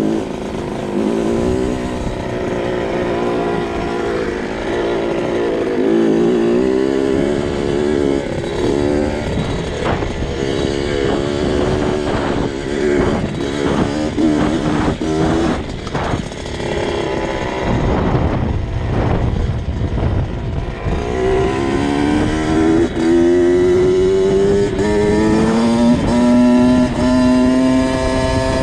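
2002 Kawasaki KX 65's small two-stroke single-cylinder engine running while ridden, its pitch rising and falling with the throttle, with a rough, choppy stretch in the middle. Over the last third it revs up in a long steady rise.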